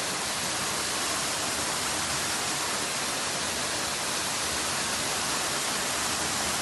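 Waterfall: a steady, full rush of falling water that holds constant throughout.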